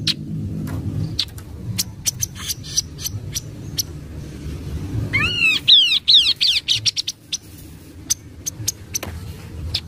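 Chestnut-capped babbler (kaso-kaso) calling: repeated sharp chip notes, with a quick run of arched whistled notes about five seconds in, over a low background rumble.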